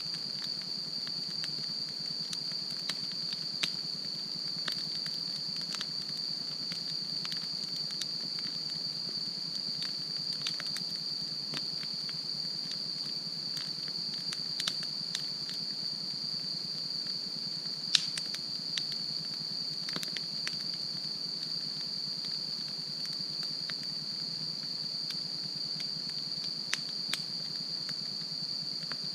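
Wood campfire burning, with scattered sharp crackles and pops, the loudest about eighteen seconds in. Behind it a steady high-pitched insect trill runs on.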